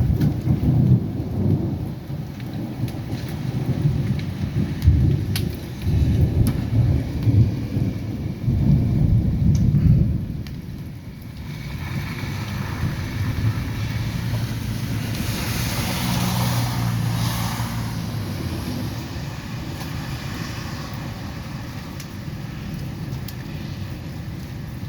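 Heavy rain falling fast, under loud, uneven low rumbling for roughly the first ten seconds. The rumbling then drops away, leaving a steadier rain hiss that swells briefly a little past the middle.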